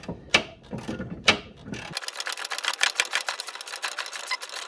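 Ratchet wrench clicking as it backs off a lower control arm nut that turns easily: a few separate clicks, then about two seconds in a fast, even run of clicks.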